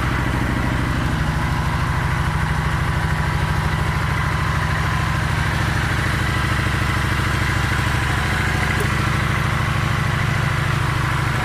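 Kawasaki Vulcan 900 Classic's 903 cc V-twin engine idling steadily with an even, pulsing exhaust note.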